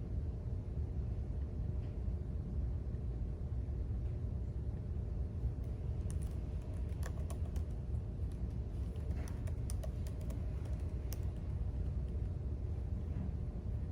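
Typing on a computer keyboard: a run of light key clicks in the middle of the stretch, over a steady low background rumble.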